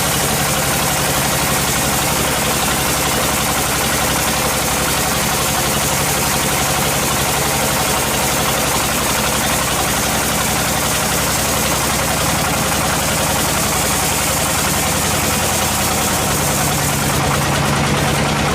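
Sawmill machinery's engine running steadily at an even level, with a low hum that shifts slightly near the end.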